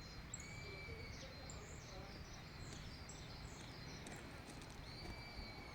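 Birds chirping: scattered short high calls, and twice a drawn-out whistled note, over a low steady rumble.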